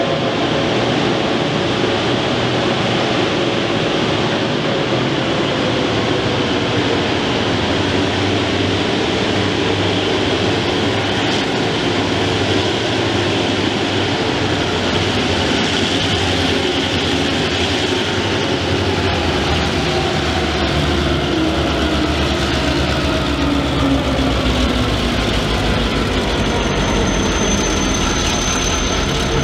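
Freight train of two diesel locomotives, P-class and T-class, running slowly through the station hauling loaded ballast wagons: steady engine drone with slowly falling tones, over the rumble of wagons on the rails. A thin, high, steady squeal comes in near the end.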